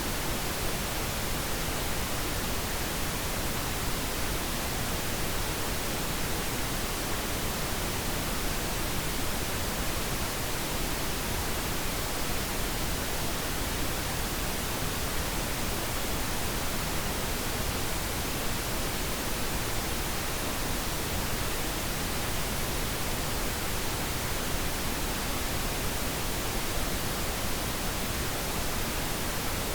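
Steady pink noise: an even, unchanging hiss spread across all pitches, used as a sleep sound for babies.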